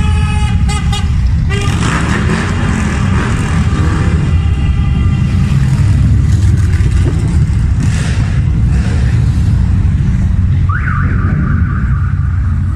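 Motorcycle engines running and revving over a steady low rumble, their pitch rising and falling; near the end one engine's pitch climbs sharply and then holds.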